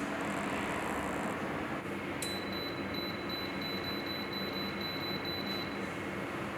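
Space heater's fan running with a steady rush. About two seconds in there is a click, then a high, steady electronic tone for about three and a half seconds.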